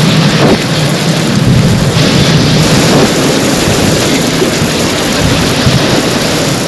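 Heavy rain pouring steadily over a continuous low rumble.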